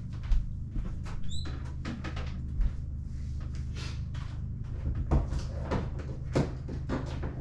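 Rummaging through a storage cabinet: a run of scattered knocks, clicks and handling clatter, with one brief squeak about a second in, over a steady low electrical hum.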